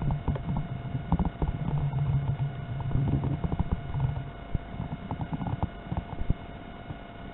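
Gusty wind buffeting the microphone with irregular thumps, over the low drone of an electric RC warbird's propeller in flight. The drone fades out about four seconds in.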